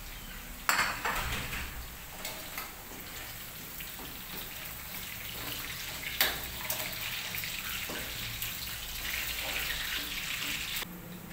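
Oil sizzling in a wok as shallots, chilies and candlenuts fry for sambal, with sharp clanks of a perforated metal ladle against the wok about a second in and again near six seconds. The sizzle grows louder near the end, then cuts off abruptly.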